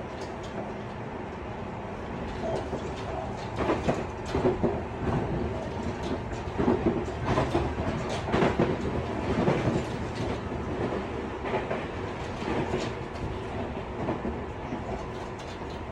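Tobu 50090 series electric train running at speed, heard from inside a motor car: a steady rumble with a louder, clattering stretch of knocks and clicks in the middle that fades back to the steady running noise near the end.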